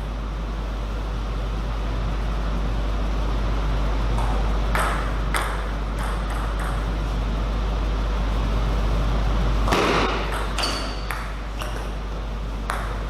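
Celluloid-type table tennis ball clicking off paddles and the table in a dozen or so irregular strikes, the loudest about ten seconds in, over a steady low hum.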